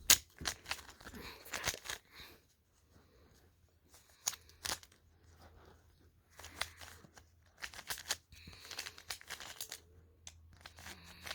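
Plastic Rubik's cube being turned by hand: quick irregular clicks and scrapes of the layers turning, in short bursts with pauses between.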